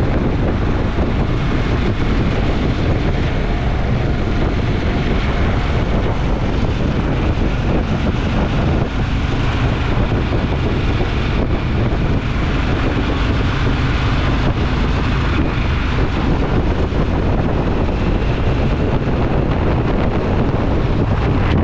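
Motorcycle riding at steady speed: the engine and exhaust run evenly beneath heavy wind rush buffeting the microphone.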